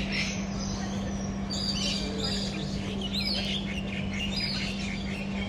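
Many birds chirping and calling at once, short overlapping high calls, over a steady low hum.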